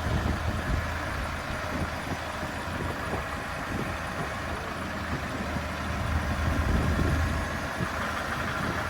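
Farm tractor engine running steadily while lifting a load, with a low hum that swells a little about six seconds in and eases back.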